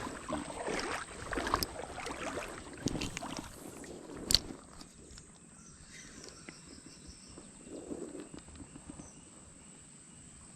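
Creek water sloshing and splashing in irregular bursts, with one sharp knock about four seconds in. After that it goes quieter, leaving a faint steady high-pitched hum.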